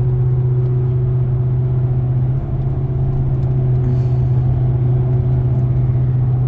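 Steady low hum of a car heard from inside the cabin.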